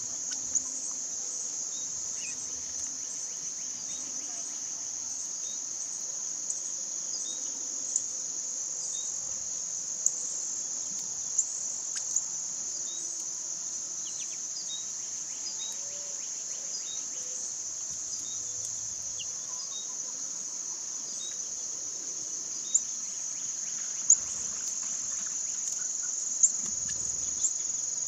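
Steady, high-pitched chorus of insects such as crickets, unbroken throughout, with short sharp chirps sounding every second or two over it.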